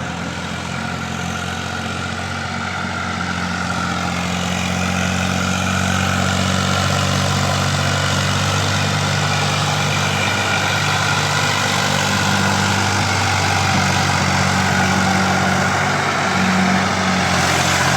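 Eicher 480 tractor's diesel engine running steadily while pulling a full load, growing a little louder over the first few seconds and then holding an even pitch.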